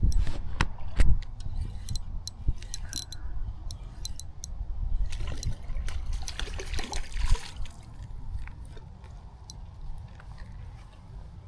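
Water splashing and dripping around a hooked fish as it is brought in and landed, with scattered sharp clicks of handling and a steady low rumble underneath.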